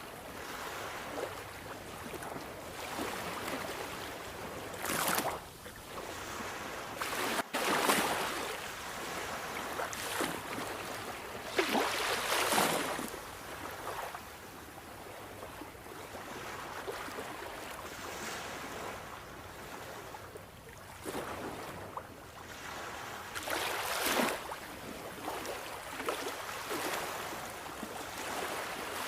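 Sea waves washing onto the shore, a steady rush with louder surges every few seconds as waves break.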